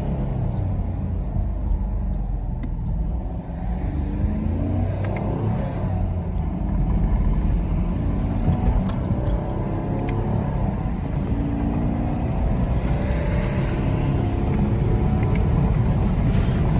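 2019 Chevrolet Camaro SS's 6.2-litre V8 running through its stock exhaust while being driven. The engine pitch climbs in several pulls and drops back between them as it shifts through the gears.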